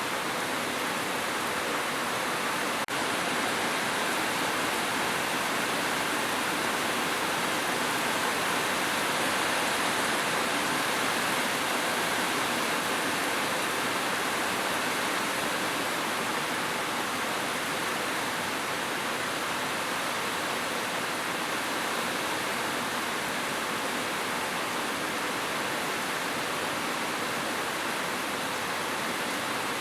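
Heavy rain falling steadily on a roof, an even hiss with no thunder, and a single faint click about three seconds in.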